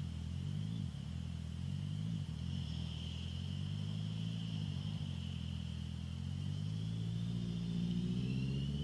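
Honda CBR650F's inline-four engine through an Akrapovic full exhaust, running at low revs with small rises and dips in pitch, then climbing steadily in pitch near the end as the bike pulls away under throttle.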